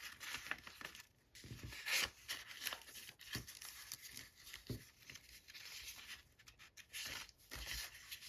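Folded sketchbook paper rustling and sliding as single pages are tucked under the paper flaps of a handmade mini book, in short irregular rustles with a few light taps; the strongest rustle comes about two seconds in.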